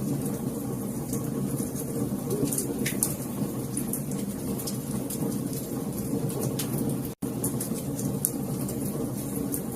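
Wood fire crackling: a steady low rush of burning logs with frequent sharp pops and snaps. The sound drops out for an instant about seven seconds in.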